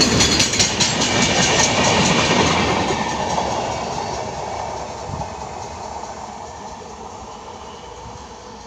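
Passenger express train's last coaches passing at speed, the wheels clattering rapidly over the rail joints, then the rumble fading steadily as the train draws away.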